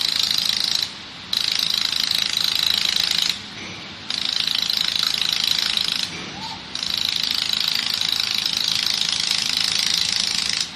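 Automated laser welding machine running weld passes on kettles: a loud, high, rapid buzzing crackle that runs for a few seconds at a time, broken three times by short pauses.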